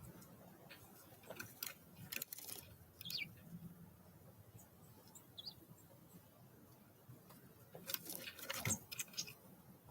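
Small wild songbirds: two spells of quick, light tapping and clicking, one early and one near the end, and a short high chirp falling in pitch about three seconds in.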